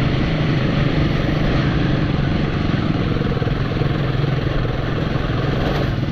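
Royal Enfield motorcycle engine running steadily while riding, with wind and road noise.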